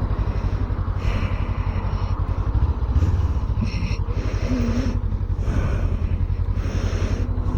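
Motorcycle engine running steadily at low revs, an even low rumble with rapid regular pulses.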